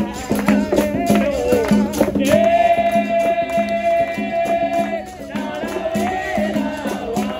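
Live capoeira roda music: a berimbau's steady low tone with its caxixi rattle and hand percussion, under singing. A singer holds one long note from about two seconds in until about five seconds in, then the singing goes on in shorter phrases.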